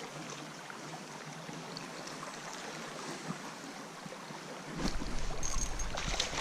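Steady outdoor hiss of river water and breeze, with wind rumbling on the microphone from about five seconds in.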